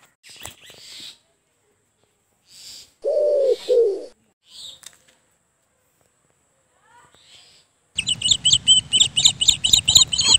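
Bird chirping: a quick run of sharp, high chirps, about four a second, starting near the end, with a shorter, lower two-part call about three seconds in.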